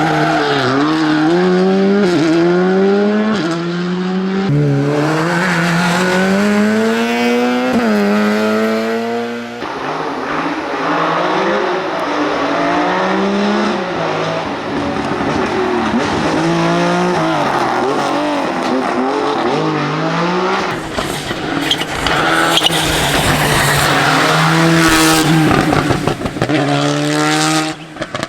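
Rally car engines revving hard at full throttle, the pitch climbing and dropping again and again through gear changes and lifts under braking.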